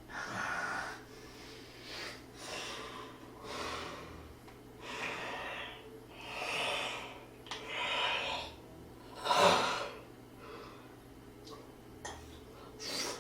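Breath and mouth noises of a person eating: a run of loud, hissy breaths and sniffs about every second or so, with the strongest one about nine and a half seconds in.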